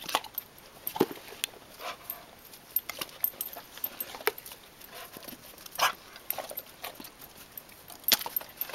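Puppies eating turkey skin, chomping and gulping it down with irregular wet smacks and clicks.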